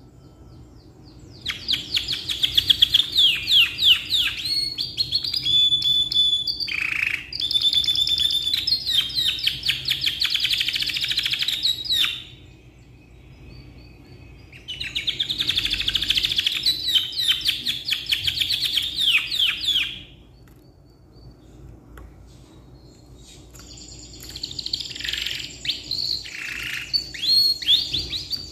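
Domestic canary singing long rolling phrases of rapid trills, in three long bouts with short pauses between them.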